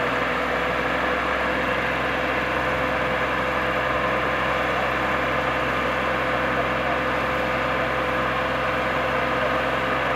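Massey Ferguson tractor's diesel engine idling steadily at an even pitch.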